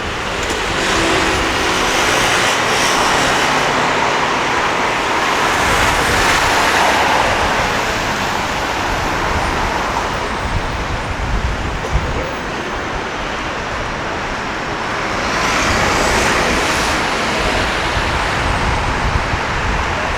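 Road traffic passing close by: vehicles swell past about two to seven seconds in and again around sixteen seconds in, over a steady traffic hum.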